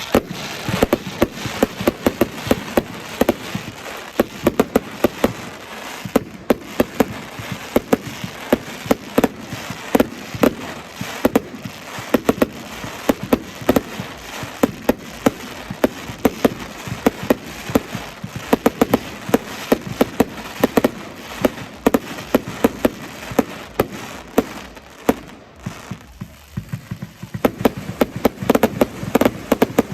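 Fireworks going off in a rapid barrage: dense sharp cracks and bangs, several a second. They thin out briefly about 25 seconds in, then come thick again.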